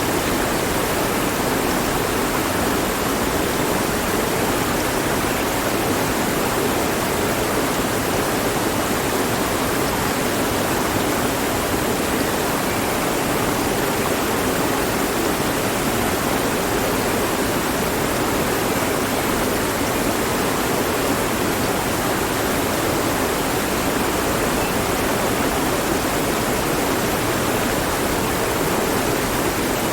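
Mountain stream flowing over rocks, a steady, even rush of water.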